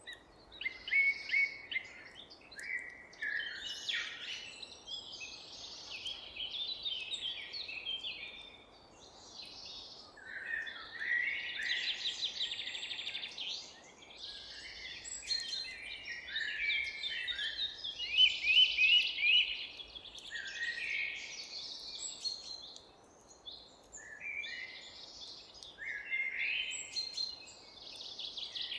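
Several songbirds singing and chirping at once in a forest, with overlapping trills and rapid chirp series over a faint background hiss and a brief lull about three-quarters of the way in.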